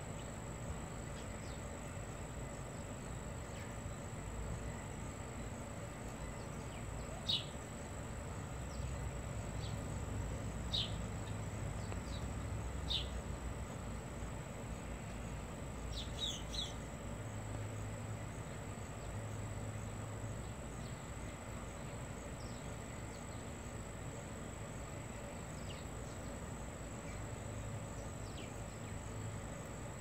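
Short, sharp bird chirps, each falling in pitch, a few seconds apart with a quick pair about halfway through, over steady outdoor background noise with a thin high whine and a low hum that comes and goes.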